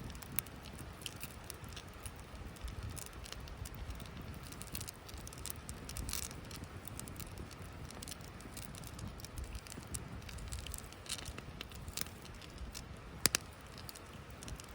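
Wood campfire in a log-cabin stack burning, crackling with scattered pops over a low steady rumble, with one sharp, louder pop near the end.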